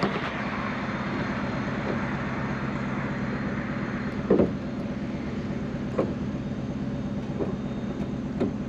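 1970 Ford Mustang's 302 V8 with a two-barrel carburettor idling steadily. A few light knocks from the side window glass being worked in its track.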